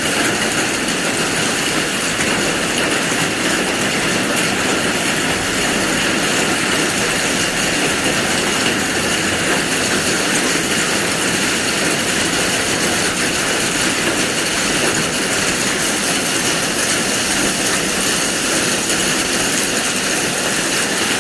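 Golf-ball-size hail falling heavily: a loud, steady, dense clatter of countless impacts.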